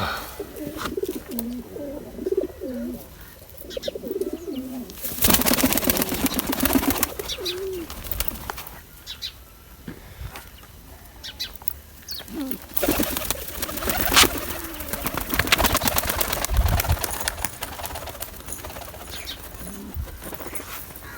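Roller pigeons cooing in low, wavering warbles, then twice breaking into a rapid flutter of wingbeats: briefly about five seconds in, and longer from about thirteen seconds.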